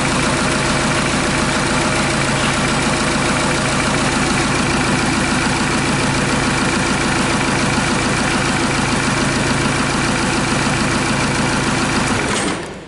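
Bare diesel engine idling steadily on a test start outside the vehicle, during an oil pressure check. The sound drops away abruptly near the end.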